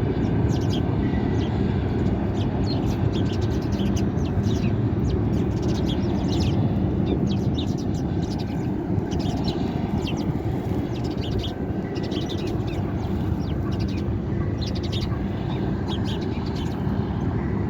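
A flock of sparrows chirping, with many short, quick chirps overlapping throughout, over a steady low rumble.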